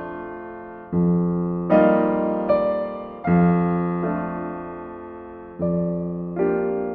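Slow, gentle solo piano music: soft chords struck about once a second, each ringing out and fading before the next.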